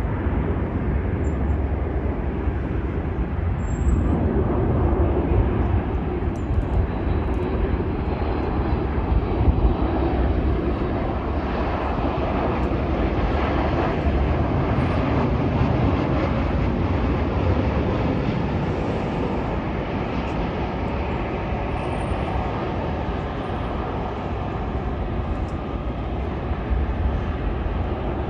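Jet airliner engine noise, a continuous rushing sound that builds about four seconds in and holds strongly before easing slightly later on, with heavy low rumble underneath.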